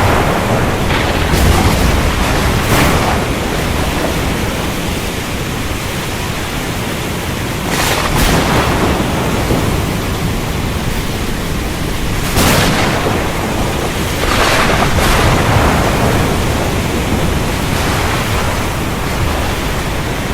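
Recorded thunderstorm ambience: a steady hiss of heavy rain over a continuous low rumble of thunder, with louder swells every few seconds. The sound cuts out abruptly for a moment near the end.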